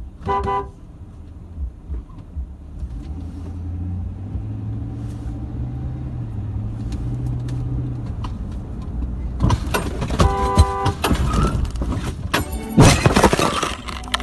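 A car on the road, its engine running and gradually building. A car horn sounds briefly at the start and again, longer, about ten seconds in, amid loud noisy sounds and sharp knocks near the end.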